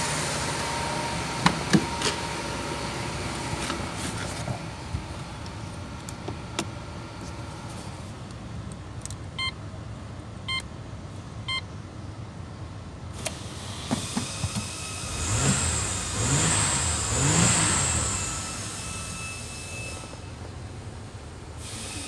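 Holden Commodore's 3.8-litre V6 idling steadily, with two sharp clicks about a second and a half in and three evenly spaced beeps about a second apart in the middle. Near the end the engine is revved in a few short blips, its pitch rising and falling back to idle.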